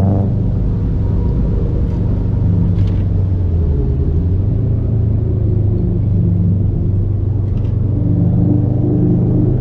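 Subaru WRX STI's turbocharged 2.5-litre flat-four, heard through a cheap aftermarket cat-back exhaust, running at light load on a cruise. The exhaust note drops in pitch at the start, holds steady, then rises a little near the end.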